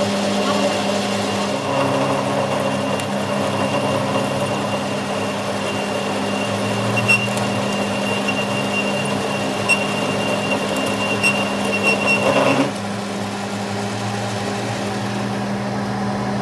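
A workshop machine's motor running steadily, with a thin high-pitched whine and a few sharp ticks that cut off abruptly about three-quarters of the way through.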